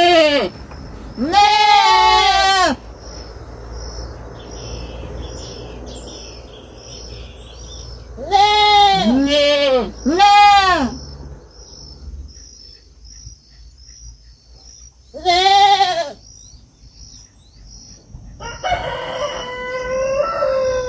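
A young goat bleating loudly in short arching calls, about six of them in bunches with pauses between. Near the end a rooster crows, and a faint high chirping repeats in the background.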